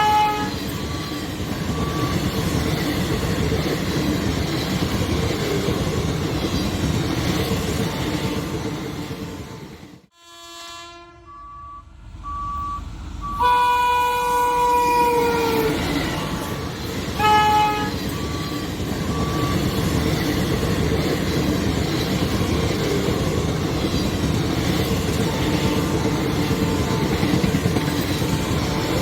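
Express train hauled by a WAP-4 electric locomotive running past at speed, a steady rumble of wheels and coaches. A short horn toot sounds at the start, a long horn blast comes about halfway that drops in pitch at its end, and another short toot follows soon after. A third of the way in the running noise briefly falls away.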